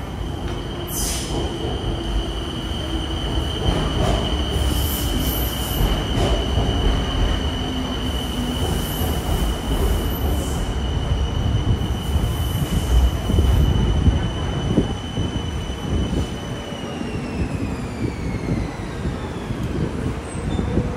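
BTS Skytrain electric train pulling into the platform. Steady rumble of wheels on track, with a high whine that holds one pitch and then falls steadily near the end as the train brakes to a stop.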